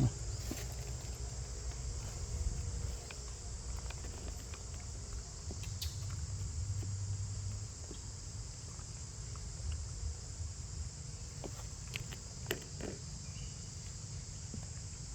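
A steady, high-pitched chorus of insects, with a low rumble beneath it and a few scattered light clicks and rustles.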